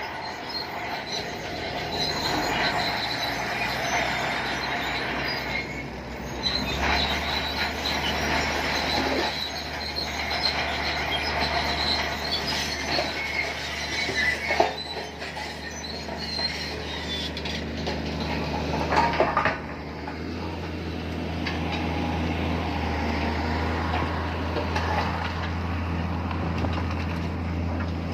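Crawler bulldozer working: its diesel engine drones steadily under the high metallic squeal of its steel tracks. There are a couple of sharp clanks, about halfway and two thirds of the way in.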